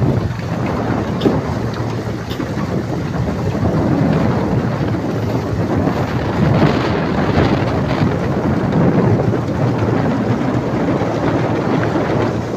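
Wind buffeting the microphone: a loud, even rushing noise that grows somewhat louder about four seconds in.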